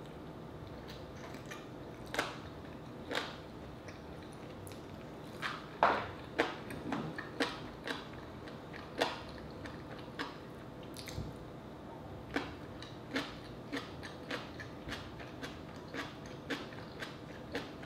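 A person chewing rotisserie chicken with open-mouth wet smacks, which start about two seconds in and come irregularly about once or twice a second.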